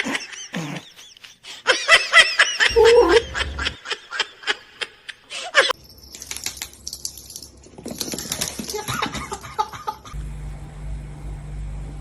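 Laughter, with wavering pitched bursts and a run of sharp clicks in the first half. It is followed by fainter mixed sounds, and a steady low hum comes in near the end.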